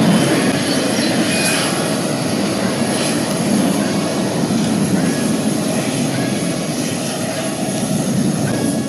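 Boeing 737-500's CFM56-3 turbofan engines at take-off thrust: a steady, loud jet noise that slowly fades.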